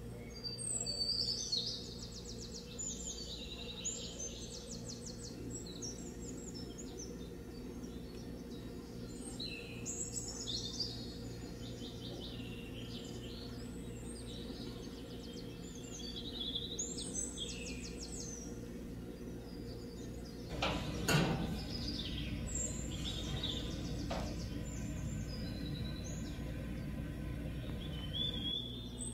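Birdsong: short, high trilling phrases repeated every few seconds over a steady low hum, with one sharp knock about two-thirds of the way through.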